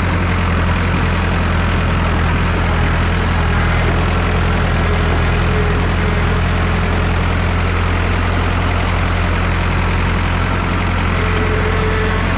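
Massey Ferguson 3165 backhoe tractor's engine running steadily at a constant speed.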